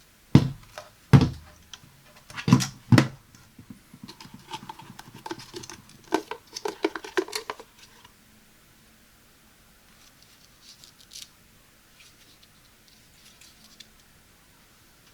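Hands handling the Dustbuster and its packaging: four sharp knocks in the first three seconds, then scratchy rustling for a few seconds, then a few faint clicks and scrapes. No vacuum motor is running.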